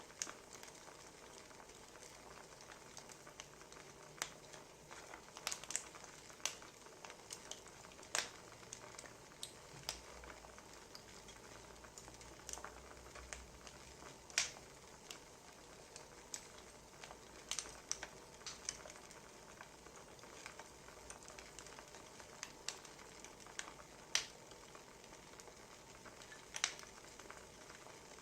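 Wood fire crackling: a steady soft hiss with irregular sharp pops and snaps, a few of them louder than the rest.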